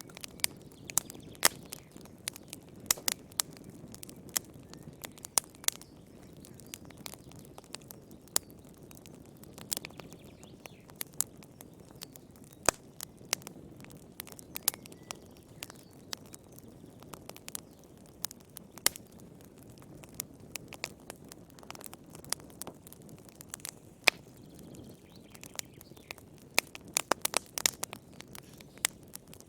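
Wood fire burning in a fireplace, with irregular sharp crackles and pops over a low steady rush of flame; the pops come thick and fast in a brief cluster near the end.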